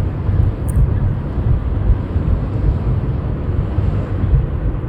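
Steady low rumble of a car driving along the road: road and wind noise from the moving car.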